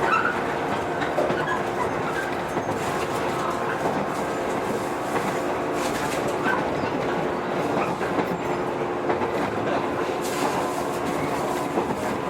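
JR 115-series electric train running at speed, heard from inside the car: a steady hum from the running gear with wheels clicking over rail joints.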